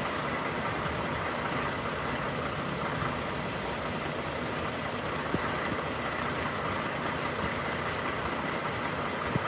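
Semi-truck engine running steadily, with a faint steady whine over it.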